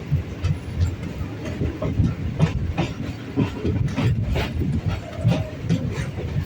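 MEMU electric passenger train running, heard from on board: a steady low rumble with irregular knocks and clicks of the wheels over the rail joints.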